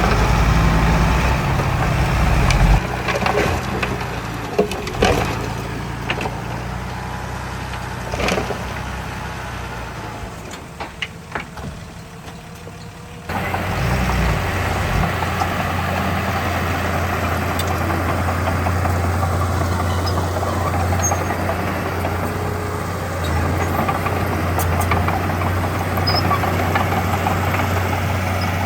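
Heavy diesel earthmoving machinery running, with scattered knocks and clanks for the first several seconds. About halfway in the sound jumps abruptly to a steady low engine hum, like a machine idling.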